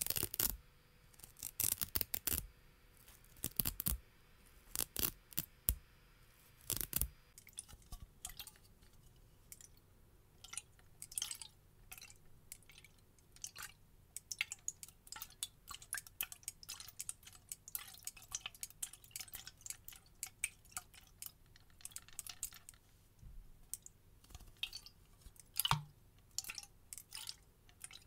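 Hook-and-loop (velcro) tape pulled apart in several loud rips for the first seven seconds. After that, many quieter light taps and clicks as a toner bottle is handled, with a few louder taps near the end.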